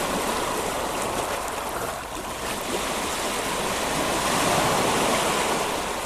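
Sea waves washing onto a sandy beach, a steady rush that swells a little past the middle and eases near the end.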